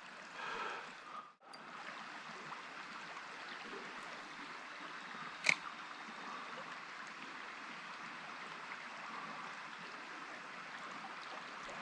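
Creek water running steadily, with one sharp click about five and a half seconds in.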